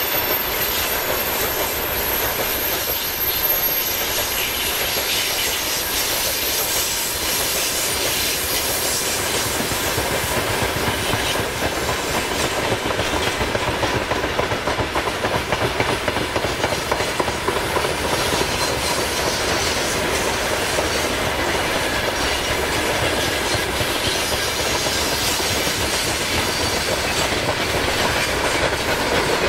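Loaded freight gondola wagons rolling past: a steady rumble of steel wheels on rail with clickety-clack over the rail joints. A faint thin squeal, typical of wheel flanges on a curve, runs under it.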